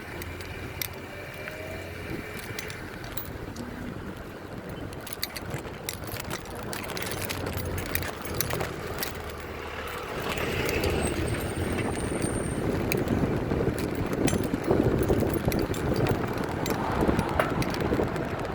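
Bicycle being ridden along a street: tyre and road noise with sharp rattling clicks from the bike. The rushing noise grows louder about ten seconds in.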